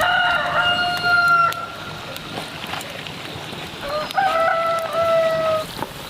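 Rooster crowing twice: two long crows, each rising at the start and then held for about two seconds, the second beginning about four seconds in.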